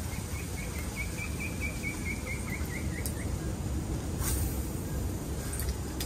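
A bird calling a quick series of about fifteen short, evenly repeated notes, about five a second for some three seconds, the last few dropping slightly in pitch. Underneath runs a steady low outdoor rumble, with a couple of faint clicks.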